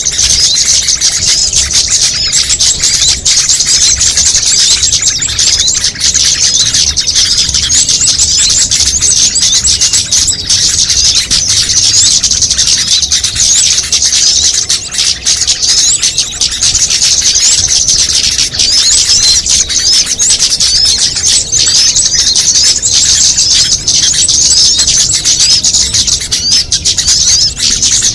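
Loud, dense, continuous chorus of many small songbirds chirping and twittering at once: a mixed bird-lure call recording. The calls are high-pitched and overlap without pause.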